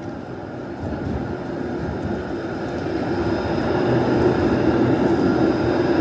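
Helsinki city tram approaching on its rails, its running noise growing steadily louder, with a steady electric-motor hum setting in about four seconds in.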